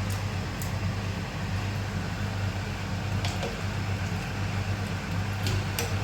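Steady low machine hum over a faint hiss, broken by a few light clicks.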